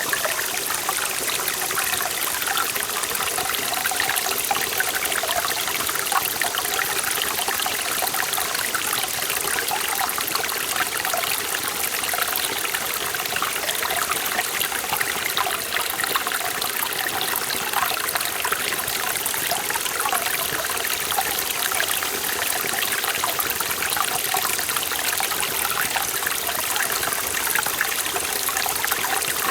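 Forest valley stream running over rocks: a steady, even rush of water with constant small splashing and gurgling.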